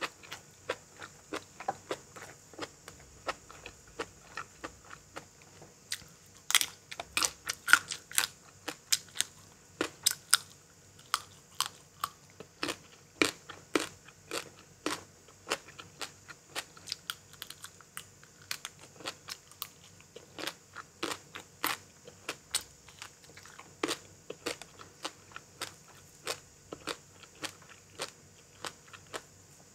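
A person chewing crunchy food close to the microphone: a quick, irregular run of sharp crunches and bites, loudest from about six to ten seconds in.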